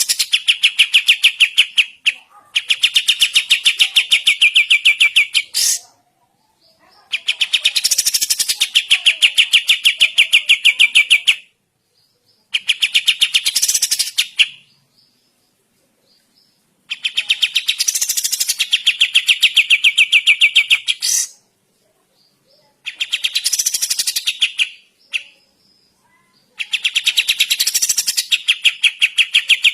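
Kapas tembak songbird singing persistently: loud bursts of very rapid, evenly repeated high notes, each burst lasting a few seconds, with short pauses between, about seven times over.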